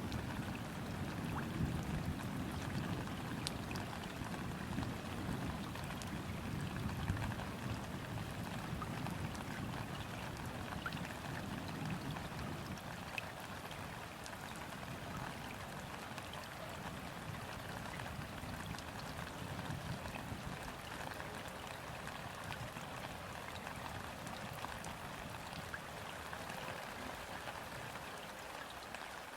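Steady rain falling on river water, a dense patter of drops. A low rumble of distant thunder dies away over the first twenty seconds or so.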